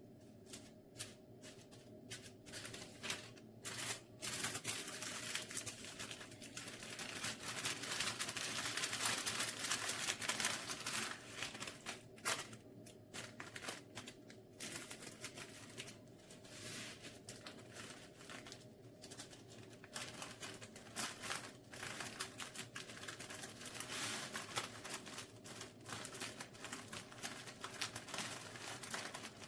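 Continuous crinkling and rustling dotted with small clicks and taps, loudest in the middle stretch, like something being handled close to the microphone.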